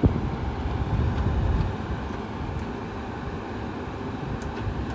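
Frigidaire 5000 BTU window air conditioner running on high fan: a steady, really loud rush of air over a low motor rumble.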